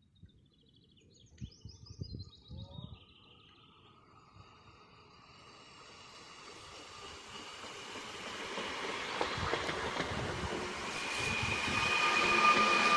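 A train approaching, its noise growing steadily louder over about nine seconds, with steady whining tones coming in near the end. Birds chirp briefly before it.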